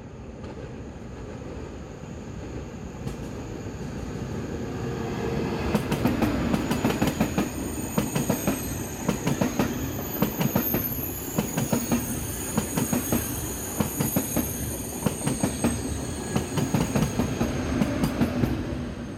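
Double-deck TGV high-speed train passing close by over a level crossing. Its sound builds steadily as it approaches, then the wheels clatter over the rail joints in a rapid run of clicks, with a high-pitched whine, until it is past near the end.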